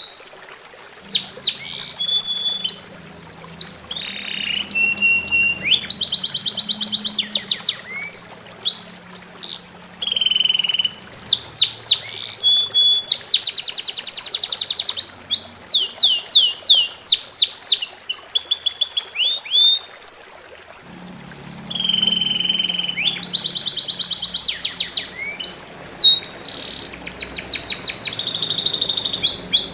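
A songbird singing a rapid, varied song of quick trills, falling sweeps and whistled notes, almost without a break, with a faint low hum underneath at times.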